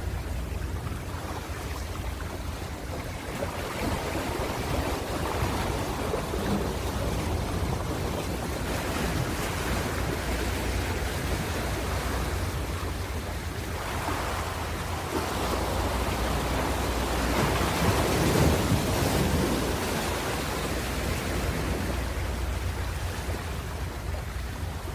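Ocean waves breaking and washing on the shore, a continuous rush that swells and fades, loudest about three-quarters of the way through, over a low rumble.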